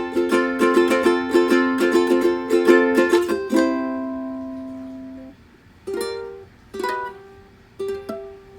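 Ukulele strummed in a quick steady rhythm, closing on a final chord that rings and fades for about two seconds. Then three single notes are plucked one at a time, about a second apart.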